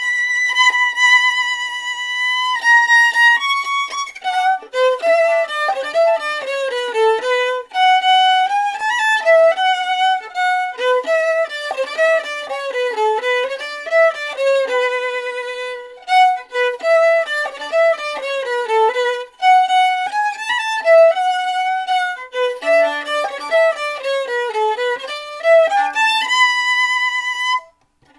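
Violin music: a long high note with vibrato, then fast running phrases that climb and fall, and another held high note near the end.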